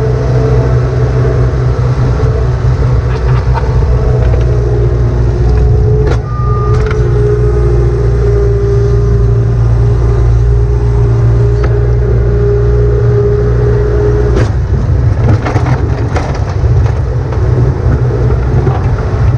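Farm tractor engine running steadily under load, close up, with a steady whine over a deep rumble. Two or three sharp clunks come about a third of the way in and again near the end.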